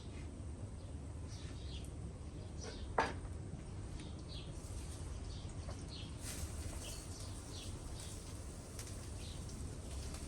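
Birds chirping, short calls scattered throughout over a steady low background noise, with one sharp knock about three seconds in.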